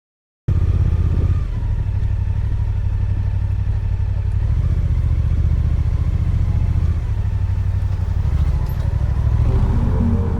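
Suzuki GSX-8S parallel-twin motorcycle engine running under way, starting suddenly about half a second in, its note stepping a few times. Music begins to come in near the end.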